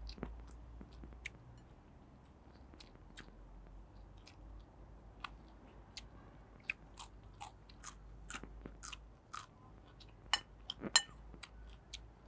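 Crunchy bites and chewing of raw cucumber and fresh vegetables: a scattered string of short, crisp cracks that grow more frequent in the second half, with the loudest near the end.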